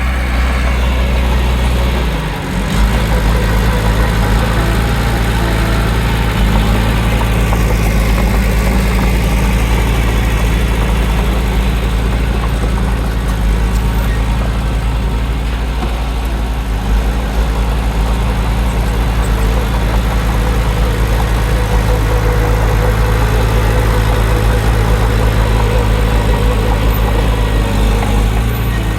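Heavy diesel engine of earthmoving machinery running steadily with a deep, low hum, dipping briefly about two seconds in.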